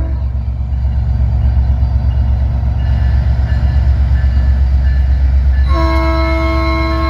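Diesel freight locomotive's multi-chime air horn: a blast cuts off at the start, then a heavy low rumble from the approaching train carries on alone, and the horn chord sounds again near the end.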